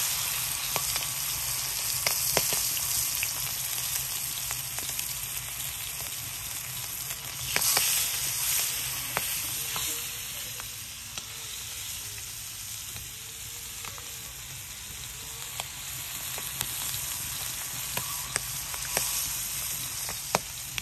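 Pieces of liver sizzling in hot ghee on a flat iron tawa, a steady frying hiss dotted with sharp crackles. The sizzle swells louder about seven to eight seconds in.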